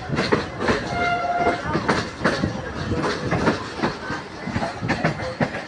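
Millat Express passenger train running over jointed track, heard from a coach window: the wheels knock over rail joints and points in an uneven clatter over a steady running rumble. A short horn note sounds about a second in.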